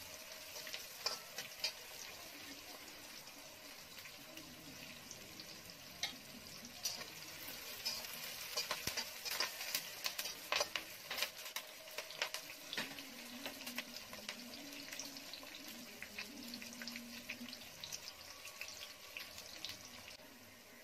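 Small shallots, dried red chillies and curry leaves sizzling in hot oil in an aluminium kadai, with a spatula scraping and clicking against the pan as they are stirred. The sizzle and clatter are busiest around the middle.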